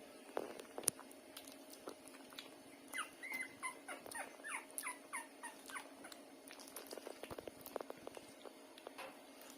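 Puppies whimpering while nursing: a run of short, high squeaks, each falling in pitch, about three a second for some three seconds, with sharp clicking sucks scattered around them and crowding together near the end.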